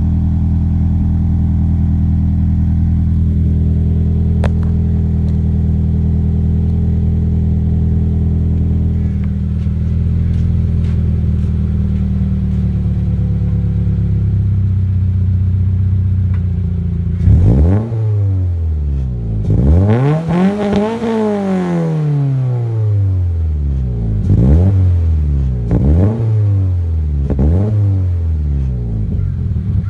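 2017 Toyota 86's flat-four boxer engine heard through a Spec-D aftermarket muffler, idling steadily for about seventeen seconds. It is then revved: a quick blip, one longer rev up and back down, and a string of short blips every second or so.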